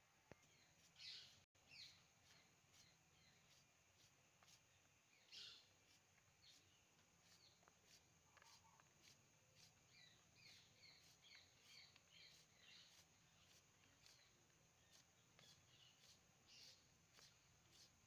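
Near silence with faint birds chirping now and then, and soft regular clicks of a knife slicing raw papaya held in the hand.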